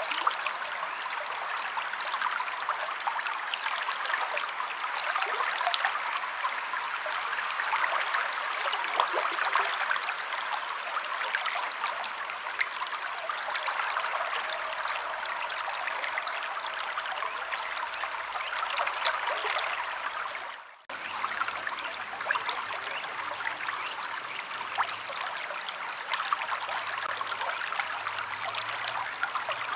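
Steady rushing and trickling of a flowing river, with a few faint, short bird chirps now and then. The water sound drops out for a split second about two-thirds of the way through, then resumes.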